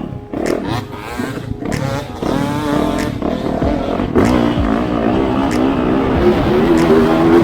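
Off-road motorcycle engine revving up and down as it rides, its pitch rising and falling repeatedly and growing louder about halfway through, with scattered sharp knocks.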